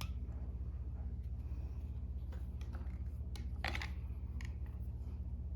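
Small clicks and rustles of a thread bobbin and thread being handled at a jig-tying vise, the sharpest about two-thirds of the way through, over a steady low hum.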